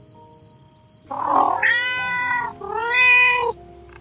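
Domestic cat meowing twice, two drawn-out meows back to back starting about a second in.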